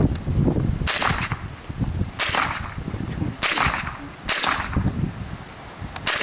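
Five .22 LR rifle shots, sharp and fairly light, fired at a steady pace of roughly one a second.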